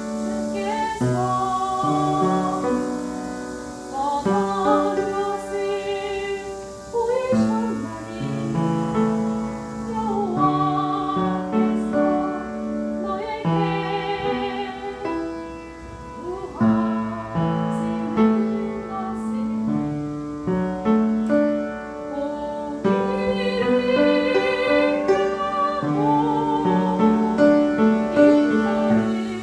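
Hymn music: a woman singing with vibrato over piano accompaniment.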